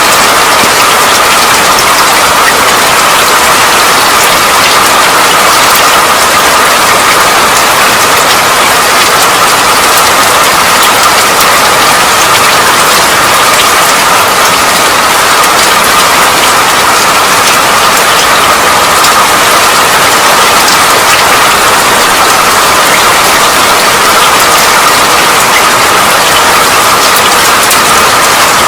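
Steady rain, a dense even hiss of drops with fine patter and no let-up.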